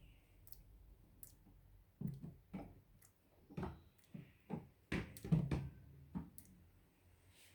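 A quick series of light knocks and clunks, about eight over four seconds with the loudest a little past the middle: something being handled, like a door or lid being worked.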